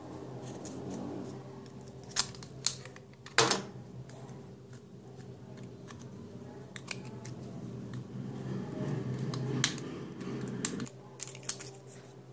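Scattered sharp clicks and taps over a low steady hum, with a rustling noise that stops about eleven seconds in.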